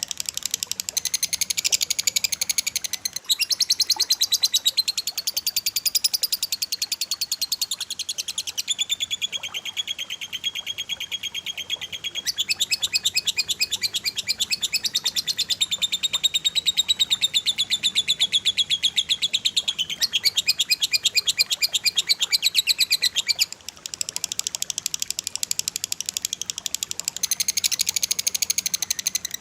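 Cililin and lovebird song: continuous, very fast rapid-fire chattering and trilling at high pitch. The pattern of notes shifts every few seconds, with a brief break about 24 seconds in.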